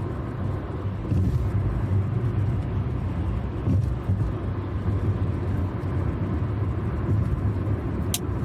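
Steady road and engine rumble inside a moving car. Near the end there is one sharp crack as a rock strikes the windshield.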